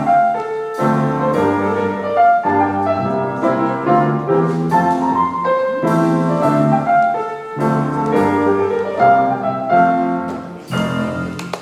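Piano-led instrumental accompaniment playing the closing bars of a song after the singing has stopped, with chords and notes struck in a steady rhythm.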